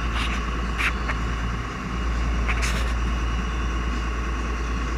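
Fishing boat's engine running steadily, with a few short knocks about a second in and near the middle.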